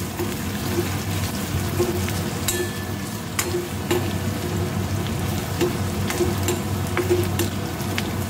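Chopped garlic and ginger with whole dried red chillies sizzling steadily in hot oil in a metal kadai. Scattered sharp clicks and scrapes come from a perforated metal ladle stirring against the pan.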